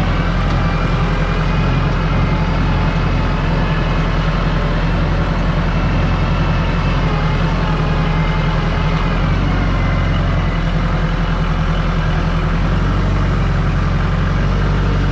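Kubota L48 tractor's diesel engine running steadily, its level and pitch holding even throughout.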